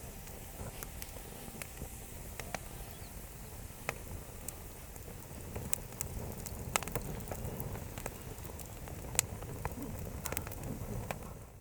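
Wood campfire crackling: irregular sharp pops and snaps over a steady low rumble, the loudest pops about seven and nine seconds in.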